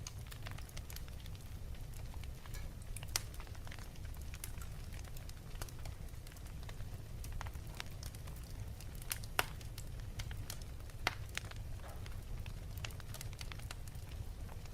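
Wood fire crackling in a fireplace: irregular sharp pops and snaps over a steady low rumble, with a few louder pops scattered through.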